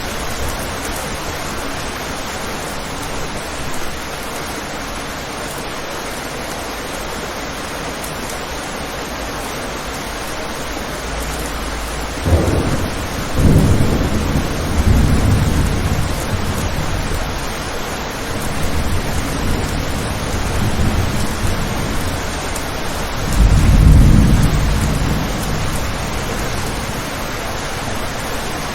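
Steady heavy rain hissing, with rolling thunder that comes in about halfway through and a second, louder rumble later on.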